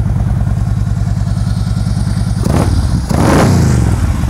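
2012 Harley-Davidson Road Glide Custom's V-twin with true dual exhausts and Freedom Performance racing mufflers, idling with a steady pulsing beat. About two and a half seconds in, the throttle is blipped twice: a short rev, then a longer one that rises and falls back to idle.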